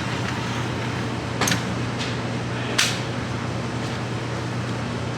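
Two sharp cracks about a second and a half apart, the second one louder, over a steady low hum.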